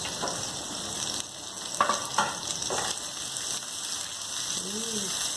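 Onion and garlic sizzling in hot oil in a frying pan, with a few sharp knocks about two seconds in as it is stirred.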